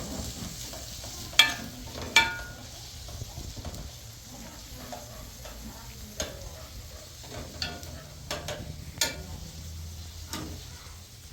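Metal cooking utensils clinking against pots and dishes while food is stirred and served, with a handful of sharp clinks, two of them loud and ringing near the start, over a low steady background.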